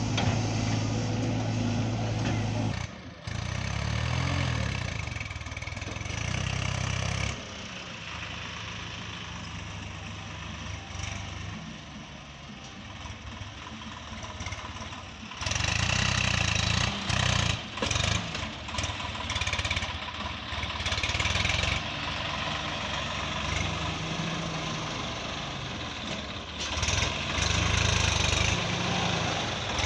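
Tractor engine running, its pitch and loudness changing abruptly several times as it shifts between idle and working under load.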